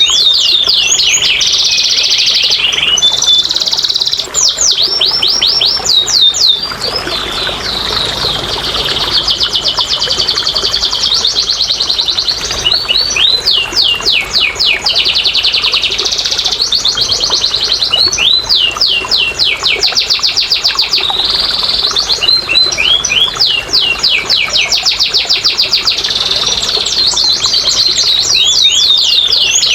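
Canary singing a long, unbroken song of fast trills and rolling phrases, with quick rising and falling notes repeated many times a second.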